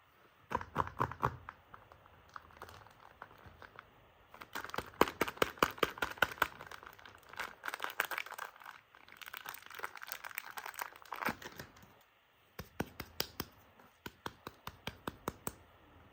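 Soap packaging being unwrapped by hand: crinkling and tearing in bursts of sharp crackles, densest in the middle, with a short pause about twelve seconds in.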